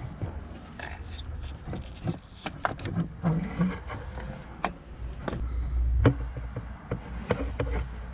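Scattered light clicks, knocks and scrapes of hands and parts being handled in a pickup's engine bay while the ignition coil and its hold-down bolt go back in, over a low background rumble that swells briefly a little past five seconds in.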